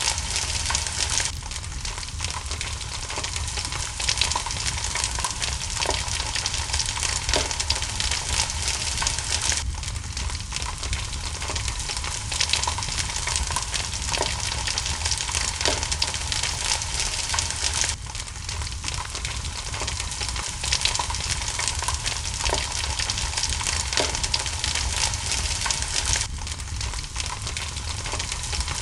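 Steady rain hiss mixed with a crackling wood fire, with scattered sharp pops. The ambience is a loop that repeats about every eight seconds.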